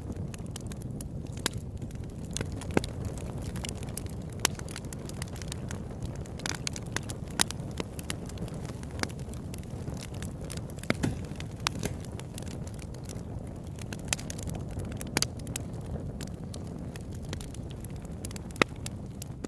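Campfire burning: irregular sharp crackles and pops from the wood over a steady low rumble.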